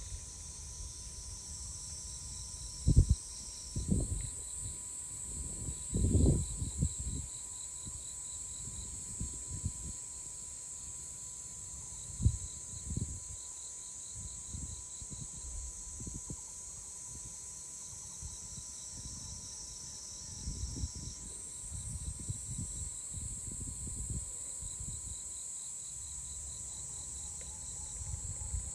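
A steady high-pitched insect chorus trilling continuously, its pitch stepping up or down a couple of times, with a fainter pulsing chirp beneath it. Several low thumps and rumbles break in, louder than the insects, mostly in the first half and again about two-thirds of the way through.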